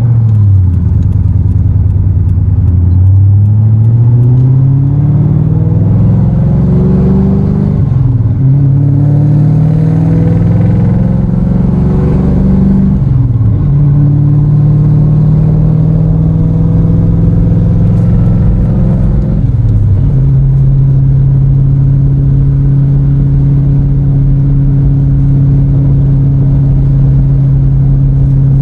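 Vehicle engine heard from inside the cab, accelerating from a stop and shifting up through the gears: its pitch rises, drops at each of three shifts, then holds steady at cruising speed.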